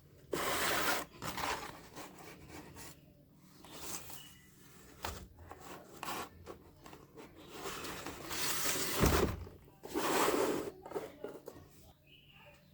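Scraping and rubbing noises in several irregular bursts of a second or so, from cardboard and craft materials being handled.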